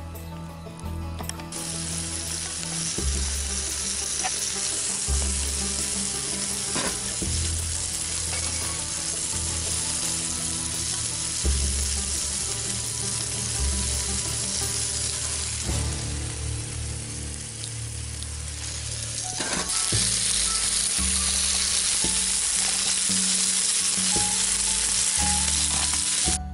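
Steaks and potato patties sizzling in a perforated steel grill pan over a wood-and-charcoal fire. The frying hiss sets in shortly after the start and grows louder about two-thirds of the way through, with background music underneath.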